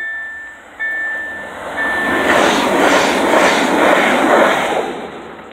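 Level crossing's electronic warning signal repeating a tone about once a second, then drowned out by an electric passenger train passing the crossing at speed. The train makes a loud, even rushing rumble that peaks in the middle and fades near the end.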